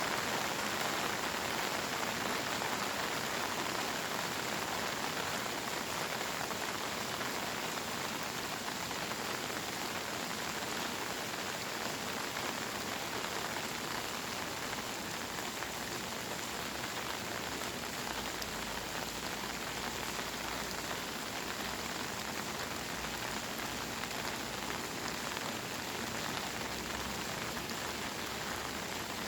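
Steady heavy monsoon rain pouring down, a dense even hiss of drops hitting surfaces, easing slightly in loudness over the stretch.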